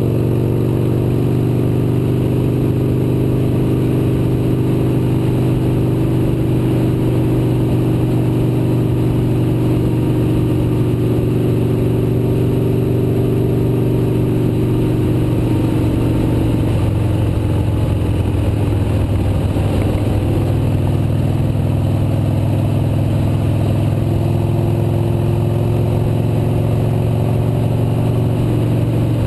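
Motorcycle engine running steadily on the move, its note dropping somewhat past the halfway point and rising again a few seconds before the end.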